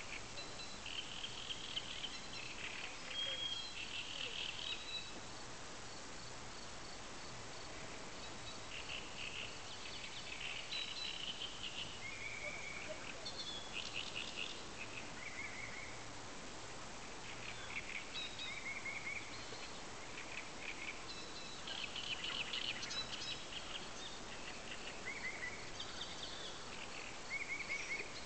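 Songbirds singing in short trills and chirps, one phrase after another, over a steady background hiss.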